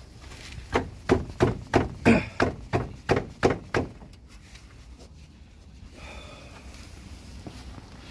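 Front shock/strut assembly of a 2007 Mazda 3 being wiggled back and forth to work it free of the suspension, knocking and clunking about a dozen times in quick succession, roughly three to four a second, before it stops.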